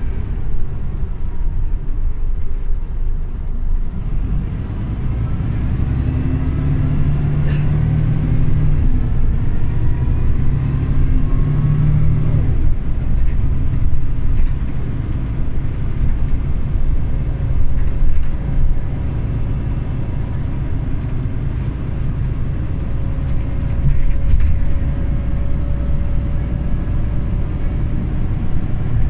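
Scania OmniLink CL94UB city bus's engine running as the bus drives. It pulls harder for several seconds from about four seconds in, then eases back to a steadier run.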